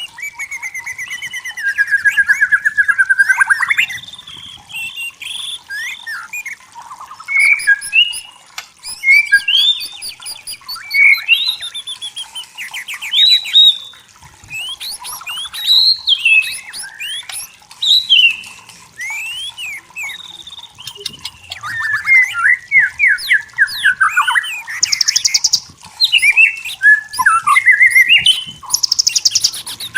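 White-rumped shama singing a long, varied song: rich whistled phrases, rising and falling glides and rapid trills, with a few harsh buzzy notes near the end.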